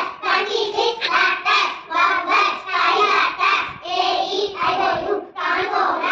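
Young children's voices chanting phonics letter sounds in a rhythmic sing-song, a few syllables a second, with a short break near the end.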